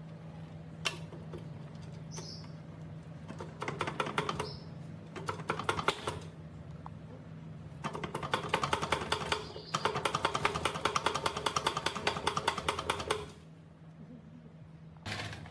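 Ratchet wrench clicking rapidly in two long runs, one of about three seconds and one of about five, with a single sharp click a second in and a knock near the end, over a low steady hum.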